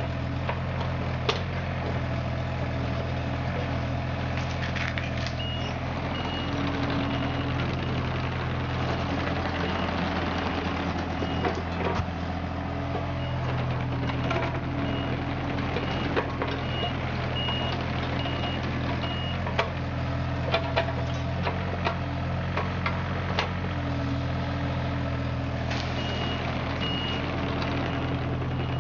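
Mini excavator's diesel engine running steadily while its travel alarm beeps in spells. Scattered sharp knocks, several close together about two thirds of the way in.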